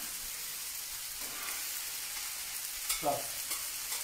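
A curry sizzling steadily in a pan on a gas grill. About three seconds in, a utensil scrapes briefly against the pan, the loudest sound in the stretch.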